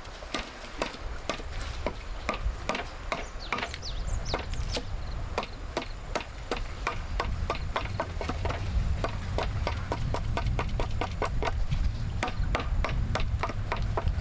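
Rapid, sharp knocks or taps, several a second, over a low rumble.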